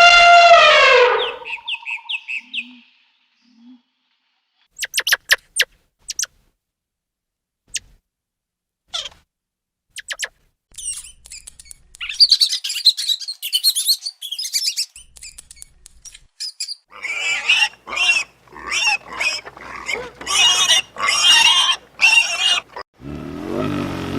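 A run of different animal calls: a loud drawn-out pitched call at the start, scattered short chirps in the middle, and a string of quick repeated cries near the end.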